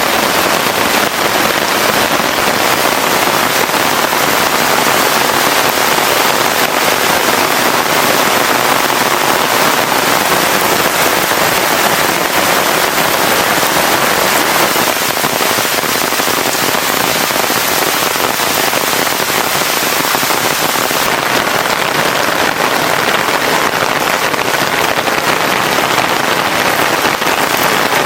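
Heavy rain pouring steadily: a loud, even downpour with no let-up.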